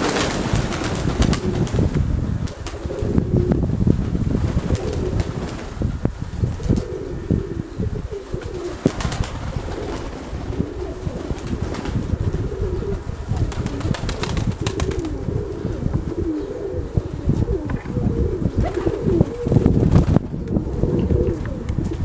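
Nikolaev pigeons cooing, with bursts of wing flapping, over gusty wind buffeting the microphone.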